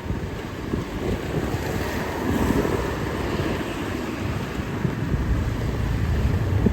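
Street ambience: a low, uneven rumble of passing vehicles with wind buffeting the microphone.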